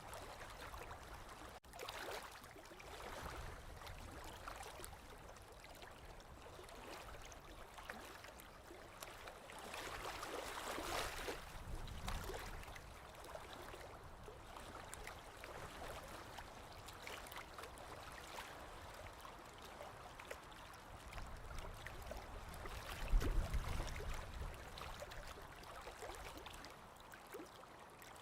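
Small waves lapping and splashing against a lakeshore, swelling and easing every few seconds, with a louder, deeper surge near the end.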